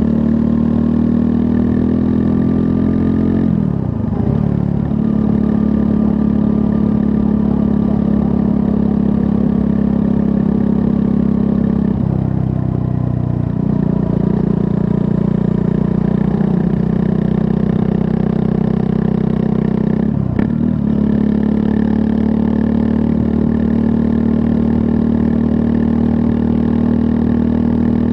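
Triumph Scrambler 400 X's 398 cc liquid-cooled single-cylinder engine running as the motorcycle is ridden, the engine note mostly steady. Three times, about four, twelve and twenty seconds in, the revs dip briefly and pick up again.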